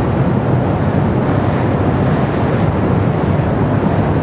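Steady, loud low rumbling of high-pressure steam venting from a ruptured underground steam main.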